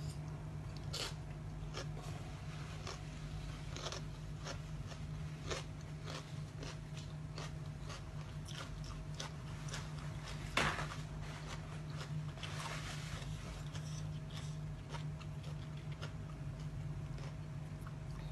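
A person eating close to the microphone: irregular bites and crunches of crisp food with chewing between them, one louder crunch about ten seconds in, over a steady low hum.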